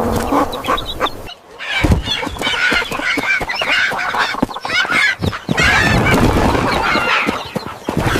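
Farmyard poultry calling: a busy jumble of short squawks and honks from ducks, geese and chickens, with sharp clicks mixed in. It drops out briefly about a second and a half in, then picks up again.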